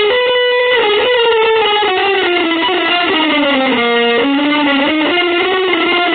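Guitar playing a continuous, freely wandering melodic line with gliding pitch, settling on one held low note about four seconds in.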